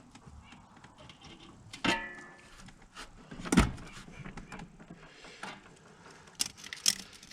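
Scattered metal clicks and knocks of hand work fitting a carburetor onto a snowmobile's three-cylinder two-stroke engine. One clink about two seconds in rings briefly, a harder knock comes about a second and a half later, and two quick clicks come near the end.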